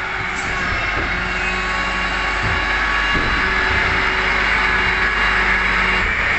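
Diesel engine of a MAN TGS 26.320 garbage truck running steadily at close range, getting louder over the first second and then holding.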